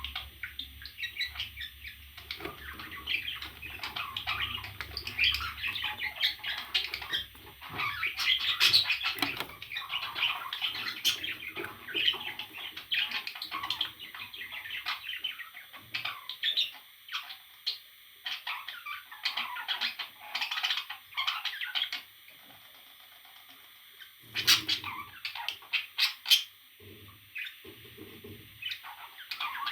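Parrot chattering in many quick short chirps, with a short lull about three-quarters of the way through and then a few louder calls.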